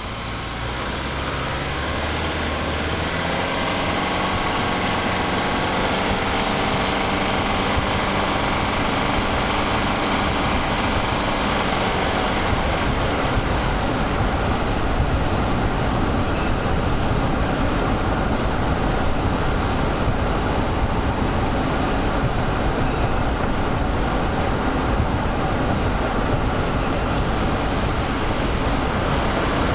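Cabin sound of a 2023 Toyota Highlander Hybrid on the move. Its 2.5-litre four-cylinder engine hums while the sound builds over the first few seconds, then fades out about a dozen seconds in, leaving steady road and tyre noise. A faint high whine comes and goes.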